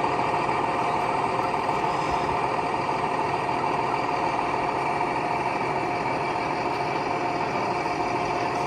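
A sound-fitted model locomotive plays a recorded engine sound at a steady idle through its small onboard speaker.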